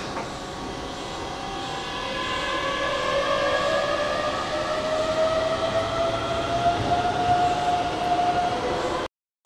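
Keihan 8000 series electric train pulling into the station, its running rumble building in loudness with several squealing tones that rise slowly in pitch. The sound cuts off abruptly near the end.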